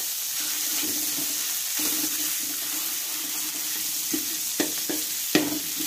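Ground pork sizzling in oil in a wok, with a steady high hiss and a low hum under it. A metal spatula knocks and scrapes against the wok four times near the end as the meat is pressed and stirred.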